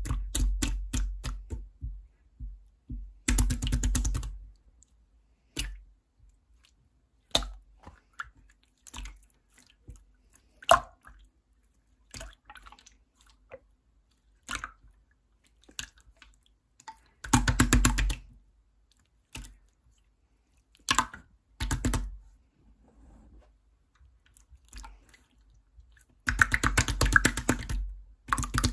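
Clear, jiggly slime being squished and pressed by hand, giving bursts of rapid crackling clicks and pops with quiet gaps between.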